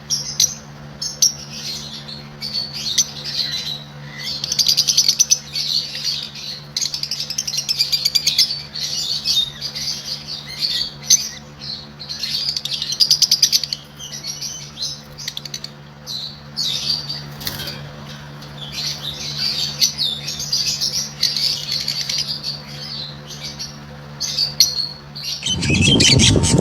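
Small pet parrots, budgerigars, chirping and warbling non-stop in rapid twittering runs, over a steady low hum. Near the end the hum stops and the sound gets louder and busier.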